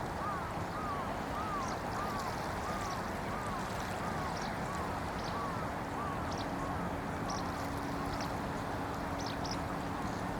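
Small waves lapping at a shallow beach over a steady distant traffic hum. A bird calls in a run of short, arched notes, about two a second, that fade out near the end, and a faint steady engine hum comes in about halfway.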